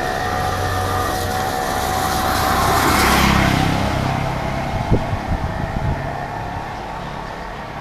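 A motor vehicle passes by: its engine and tyre hiss swell to a peak about three seconds in, then fade away. A few short knocks come about five seconds in.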